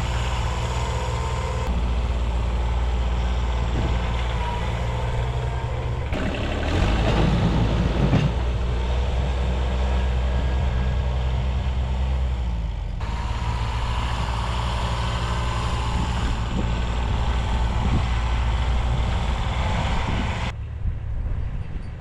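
1978 Kubota B6100 14 hp diesel tractor engine running steadily, with a louder, rougher stretch about seven to eight seconds in.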